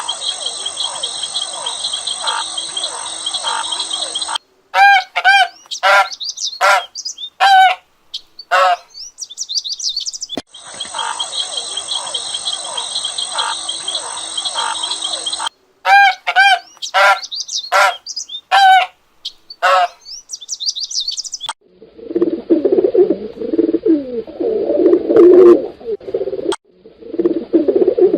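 Birds calling: a dense chorus of high chirping, then a string of separate clear calls sweeping up and down in pitch. The sequence plays twice, and from about 22 seconds in it gives way to lower, throatier bird calls.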